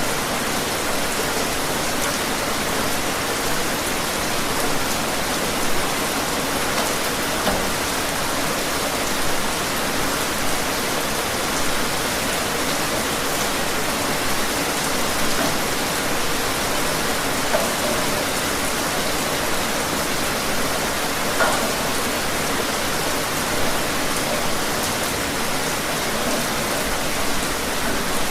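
Steady rain falling outside, an even hiss with scattered individual drops landing on surfaces.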